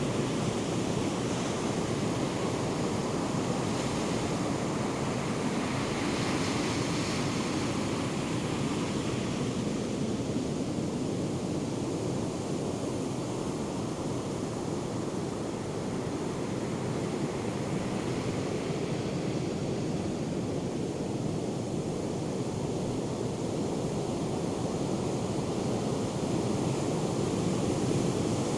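Ocean surf from a hurricane swell, waves breaking and washing ashore in a steady, continuous rush of noise.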